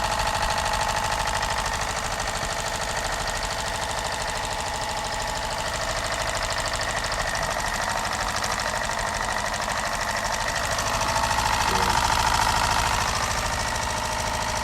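Mini biogas-fired Stirling engine running steadily under electrical load, driving a DC motor as a generator: a fast, even mechanical clatter with a whine that grows a little louder about eleven seconds in.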